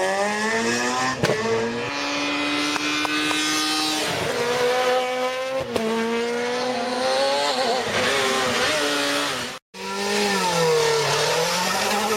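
Rally car engine at high revs, its pitch climbing through the gears and dropping at each shift, with sharp cracks at two of the shifts. Near the end it cuts to another rally car whose engine note falls and then rises again as it accelerates.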